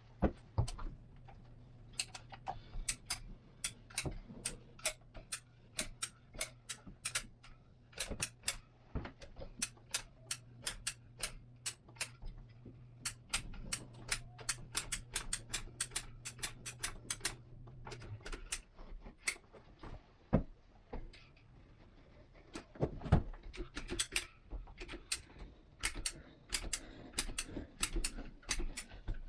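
Many sharp, irregular clicks and taps from hands-on work, bunched in quick runs, over a low steady hum that stops about eighteen seconds in.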